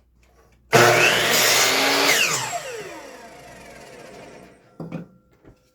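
Electric miter saw starting up and cutting through a wooden fence picket, then its blade spinning down with a falling whine once the trigger is released. A short knock follows near the end.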